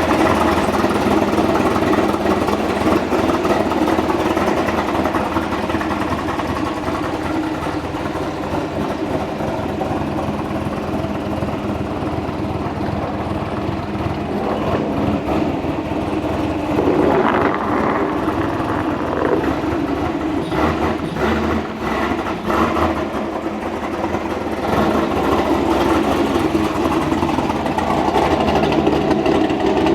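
Corvette C6 Z06's 7.0-litre LS7 V8 idling after a cold start, through long-tube headers, an X-pipe and a Corsa exhaust with no catalytic converters. The idle holds steady, with a few brief uneven spots a little past halfway.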